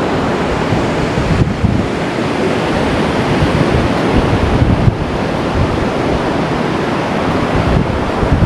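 Sea surf washing onto the beach, with wind buffeting the microphone in a steady, loud rumble.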